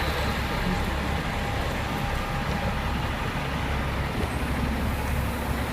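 Hong Kong double-decker electric tram running along the street: a steady, low rumble of the car and its wheels on the rails, with a faint steady whine over it.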